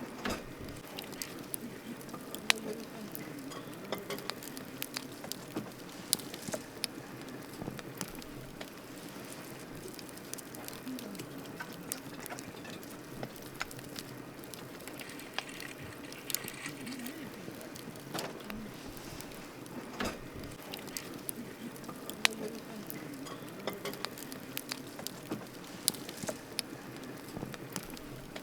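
Wood campfire burning, with irregular sharp crackles and pops over a steady low rush of flame.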